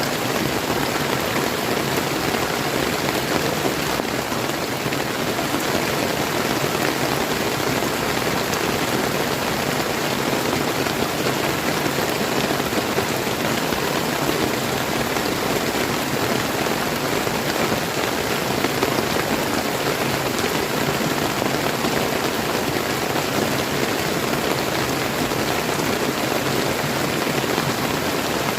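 Steady, even rain falling and pattering on surfaces, blended with the rush of a flowing river.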